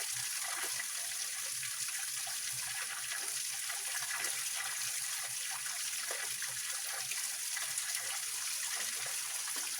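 Small waterfall and rocky mountain stream flowing steadily, an even rushing splash heavy in the high end.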